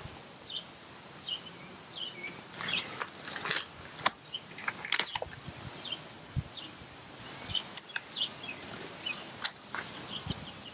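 Cardboard shipping box being handled and opened: scattered rustles, scrapes and clicks of cardboard and packing. Short chirps, typical of birds, come again and again in the background.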